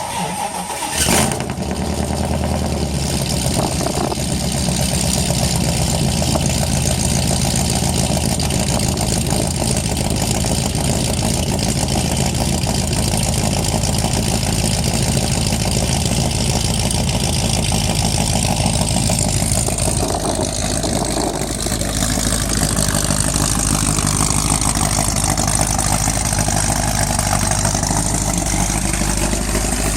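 AMC 360 V8 exhaust through 2-inch pipe and Thrush glass pack mufflers: the engine starts about a second in and settles into a steady idle.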